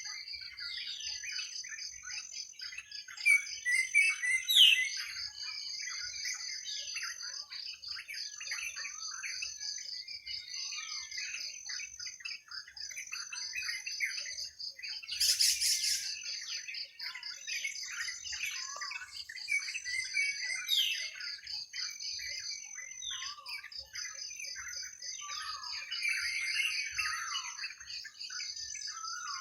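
Several birds chirping and calling in a forest, with short chirps and quick downward sweeps, over a continuous high, rapidly pulsing trill. A brief loud high hiss breaks in about halfway through.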